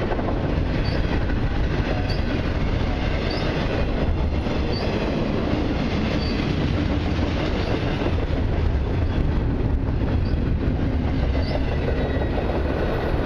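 Intermodal freight cars rolling past on the rails in a steady, loud rumble of wheel and rail noise, with faint short wheel squeaks every second or so.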